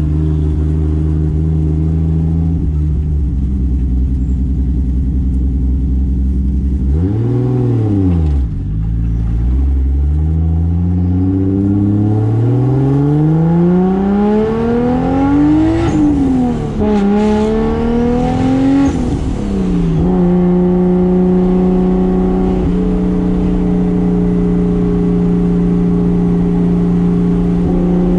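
Toyota Soarer's turbocharged 2JZ straight-six engine running steadily, then a quick throttle blip about seven seconds in. It then pulls hard with a long rising pitch, drops on an upshift, rises again, and falls back about twenty seconds in to run steadily.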